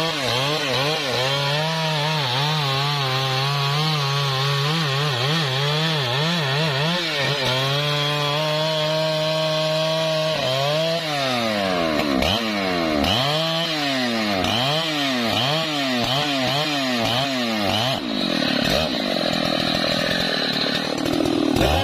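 Husqvarna 3120 XP two-stroke chainsaw at full throttle cutting through trembesi wood, its engine pitch dipping and recovering as the chain bites. The pitch holds steady for a couple of seconds a little before halfway, then falls and rises again about once a second.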